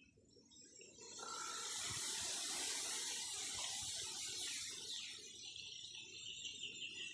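Bamboo leaves rustling in a gust of wind: a hissing rush that swells about a second in, holds for a few seconds and dies away, with faint chirps near the end.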